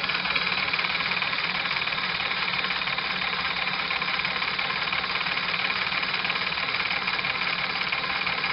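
Small flash-steam engine running steadily, driving its directly coupled feed pump, with a fast, even beat.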